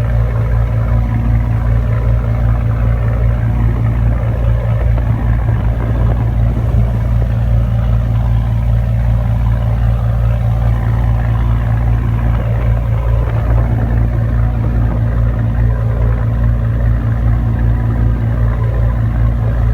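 Tugboat's diesel engine running steadily: a continuous low drone with a fine, rapid pulse.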